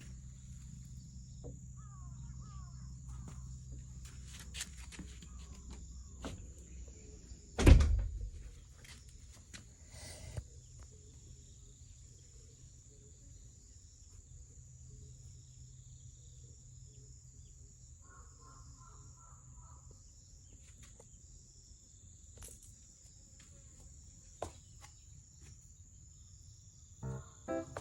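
Outdoor ambience with a steady high insect drone, scattered light clicks and knocks, and one loud thump about eight seconds in.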